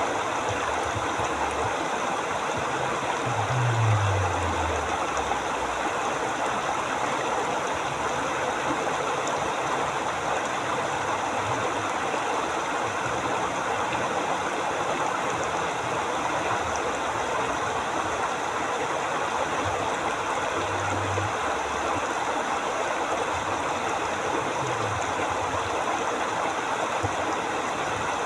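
A forest river flowing in a steady, even rush of water, with a few brief low rumbles underneath, the first about four seconds in.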